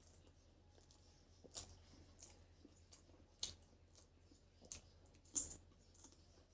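A person eating: scattered sharp clicks and crunches of chewing and handling food, about five in all, the loudest a little after five seconds in, over a faint steady low hum.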